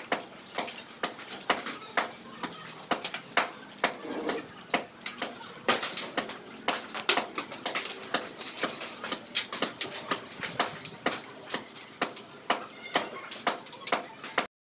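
Repeated blows of a hand-swung blade chopping into a tree trunk, sharp strikes at a steady pace of about two a second.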